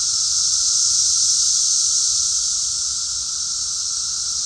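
A chorus of cicadas, a loud, steady, high-pitched buzzing that swells a little about a second in and eases off near three seconds, part of the chorus's rising and falling waves.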